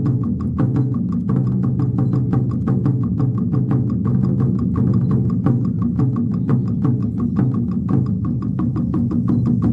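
A drum ensemble playing a fast, steady rhythm of about five strikes a second, with the low tones of the large drums ringing on under the sharp strikes.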